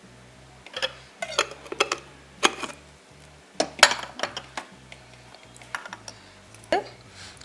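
Small glass bottles clinking and knocking, about ten irregular clinks, as they are handled and set down on a fridge shelf.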